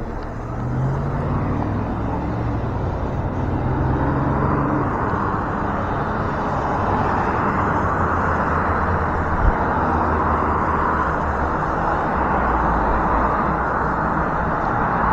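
Road traffic heard from the roadside: a steady rushing noise of passing cars that swells through the middle, with a low engine hum in the first few seconds.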